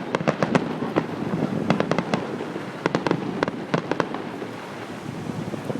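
Fireworks going off in quick succession: many sharp bangs and crackles in clusters about a second apart, over a steady rumble of distant explosions.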